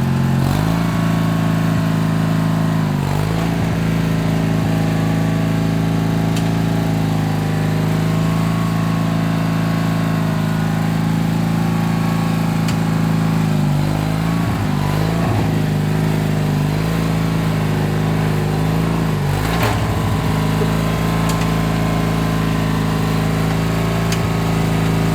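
Craftsman LT4000 riding lawn tractor engine running steadily, its pitch dipping briefly and recovering a few times as it comes under load.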